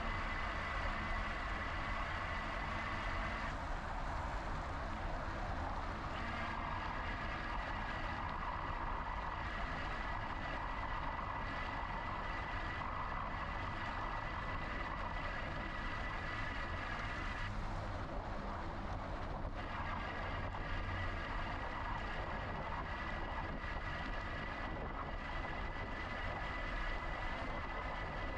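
GoCycle GX electric bike riding on a paved path: steady rumble of wind and tyres, with a high motor whine that drops out twice, about four seconds in and again around eighteen seconds in.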